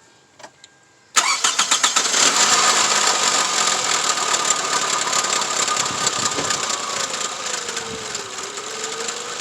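2004 Toyota Camry engine cranked by its starter and catching after about a second of cranking, then running at a fast idle that settles down. It has just been fitted with a new ignition coil and is being run to check whether the misfire is gone.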